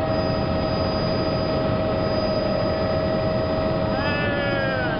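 Helicopter in flight: steady engine and rotor noise with a constant whining tone over it.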